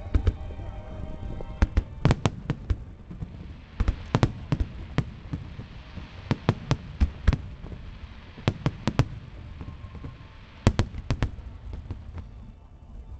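Large fireworks display going off: many sharp bangs of shell bursts, often several in quick succession, in clusters throughout.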